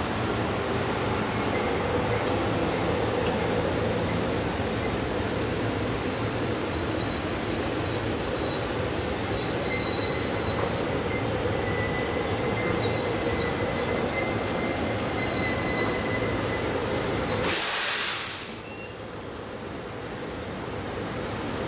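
Train rolling by with its wheels squealing in thin, wavering high tones over a steady rumble. The sound drops off sharply about eighteen seconds in.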